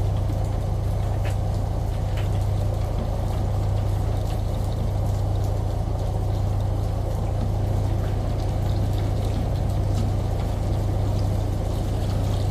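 Steady layered ambience of rain, shower water and a washing machine: a constant low hum under an even rush of running water, with scattered faint drops and ticks.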